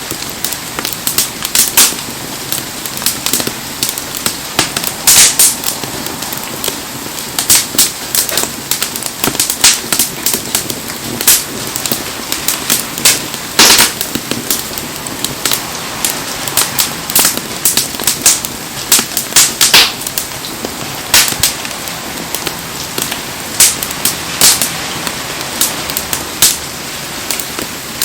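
Wood bonfire crackling, with frequent irregular sharp pops and snaps, over a steady hiss of heavy rain.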